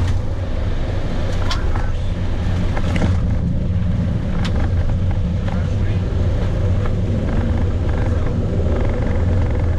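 Airbus A320 flight-deck noise on the landing roll just after touchdown: a steady low rumble of the wheels on the runway and the engines. There are a few sharp knocks in the first few seconds.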